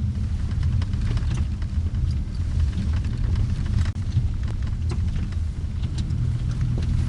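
Steady low rumble of a car driving, with scattered light clicks and ticks through it.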